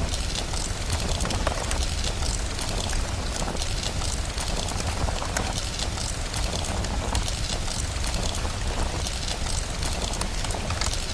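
Ambience of steady rain and a crackling fire: an even hiss dotted with many small sharp crackles, over a constant low rumble.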